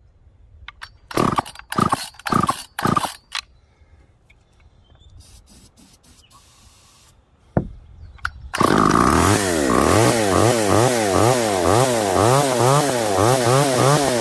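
Small vintage two-stroke chainsaw being pull-started. A few short bursts come first, then a lull, and about two-thirds of the way in the engine catches and keeps running, revving up and down rapidly. It runs now that its clogged carburetor has been cleaned out.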